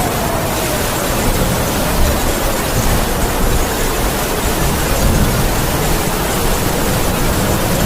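Heavy rain falling steadily while the wind howls, a faint whistling tone that slowly sinks and rises in pitch over a low, surging rumble of gusts.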